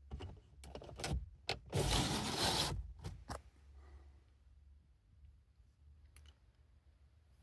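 A few sharp clicks and handling knocks, with a loud zip-like scrape lasting about a second around two seconds in, over a low steady hum. A couple of faint clicks come near the end.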